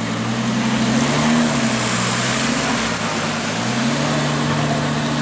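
Car engine running and being revved lightly: its pitch rises and falls, twice.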